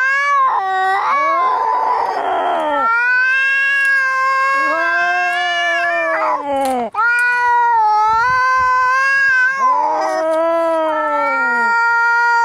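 Domestic cats caterwauling: long, drawn-out yowls that bend up and down in pitch, with a short noisy burst about two seconds in and a brief break around the middle. These are the angry yowls of cats squaring up to fight.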